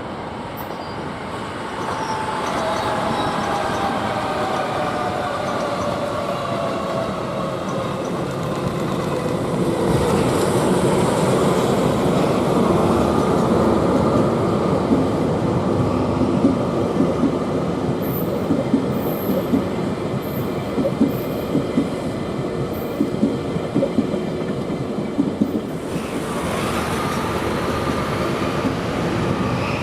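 A DE10 diesel-hydraulic locomotive passing, its engine pitch falling, then the towed, unpowered Nankai 8300 series train cars rolling by with loud wheel noise, clickety-clack over rail joints and a few short wheel squeals.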